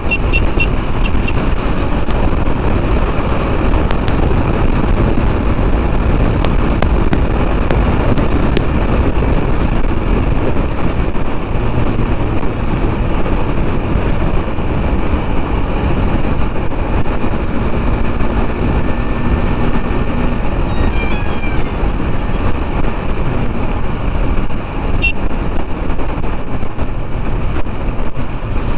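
Steady wind and road noise of a KTM Duke 390 motorcycle ridden at speed among highway traffic.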